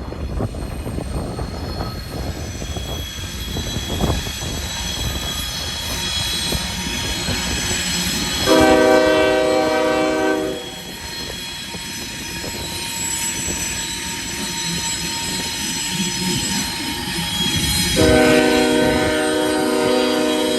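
Diesel freight locomotives rolling through a curve, steel wheel flanges squealing steadily on the rail. The lead locomotive's air horn sounds two long blasts, one about 8 seconds in and one about 18 seconds in, and the second runs on past the end.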